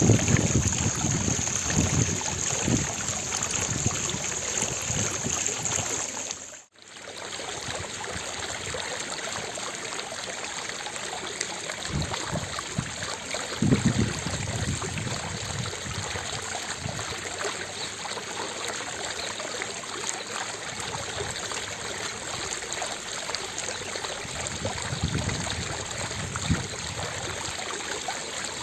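Fountain water splashing and trickling in a steady hiss. About seven seconds in, the sound drops out for a moment at an edit, then goes on a little quieter and more even.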